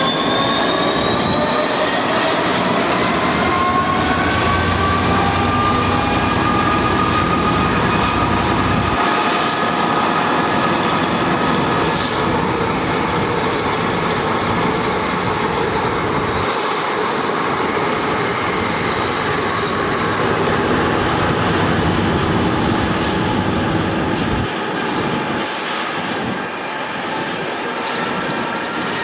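A train running past on the line, with several high whining tones that rise in pitch over the first few seconds and then hold steady over the rumble of the wheels. Two brief clicks come about ten and twelve seconds in, and the sound eases slightly near the end.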